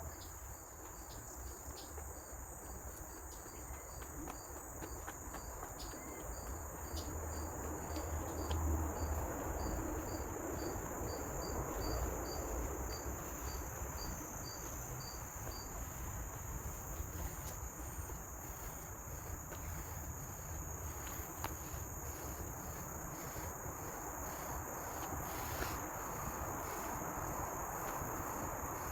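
Tropical forest insects keeping up a steady high-pitched drone, with a second insect pulsing a short note about twice a second through roughly the first half. A low rumble runs underneath.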